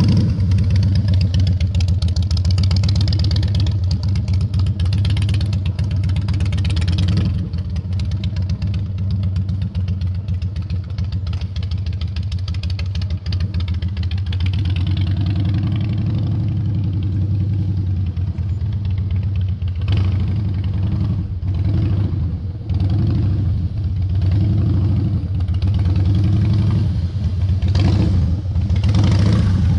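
Harley-Davidson V-twin engine running at walking pace through a cone weave, a steady low pulsing idle with short throttle blips that rise and fall every second or two as the rider feathers clutch and throttle.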